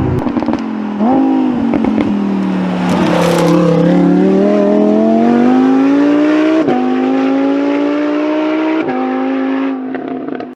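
Lamborghini Huracán EVO RWD's V10 through a NOVITEC exhaust: a couple of quick revs, then hard acceleration with the pitch climbing steadily, broken by two upshifts about two seconds apart.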